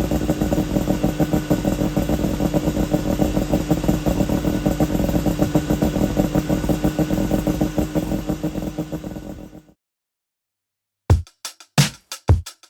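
Suzuki Jimny SJ30's three-cylinder two-stroke engine running steadily through an APIO Matsumoto-style expansion chamber and Muffler 2 exhaust, with a fast even pulse and no change in pitch. It fades out about ten seconds in, and a few drum hits of music start near the end.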